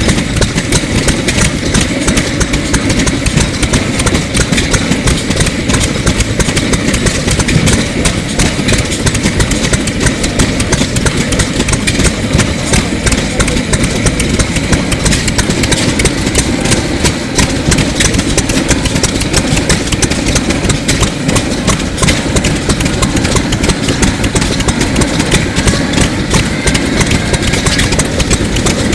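Sato 2 hp hot-bulb semi-diesel engine from around 1933, running steadily with a rapid, even beat.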